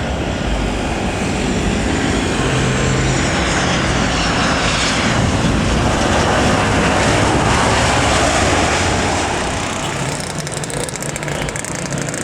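Jet airliner passing low overhead, its engine whine sliding down in pitch as it goes by over a broad roar. The noise builds to its loudest in the middle and eases off near the end.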